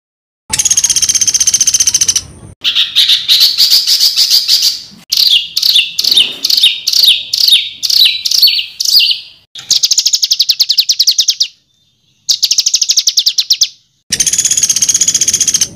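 Edited songbird tutor recording: harsh, buzzy calls, fast trills, and a run of about ten sharp downward-sweeping notes, spliced together with abrupt silent gaps between phrases.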